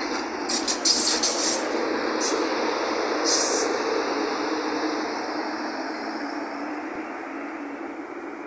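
A CPTM electric multiple-unit train running along the platform, its steady rumble slowly fading as it draws away. Short bursts of high hiss come about a second in, again near two seconds and around three and a half seconds.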